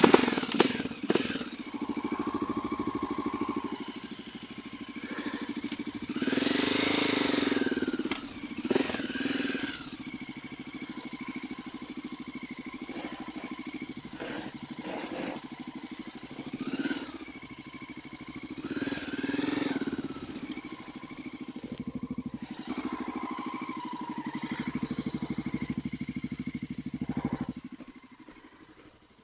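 Dirt bike engine running, revving up and easing off several times, with a few sharp knocks near the start. The engine sound drops away near the end.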